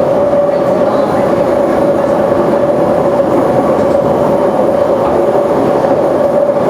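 Siemens C651 metro train running at a steady speed, heard from on board: a constant rumble of wheels on rail with a steady mid-pitched tone.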